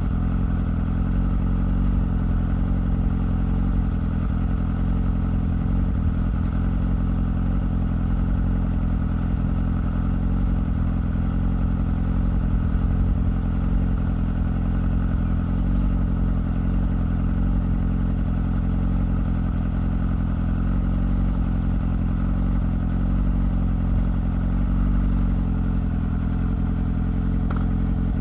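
2007 Yamaha R6's inline-four engine running steadily through a Two Brothers slip-on exhaust fed by 2005 R6 stock headers, holding an even speed without revving.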